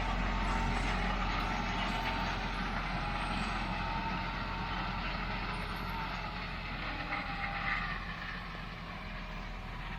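Fendt 514 tractor's diesel engine running steadily as it pulls a hay rake across the field, slowly growing fainter.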